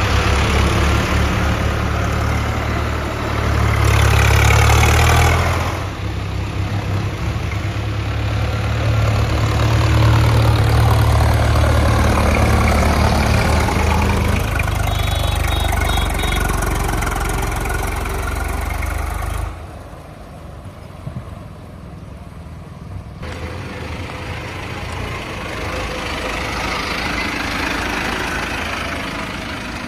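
Tractor engine running steadily, louder for a couple of seconds about four seconds in, then dropping to a quieter run about two-thirds of the way through.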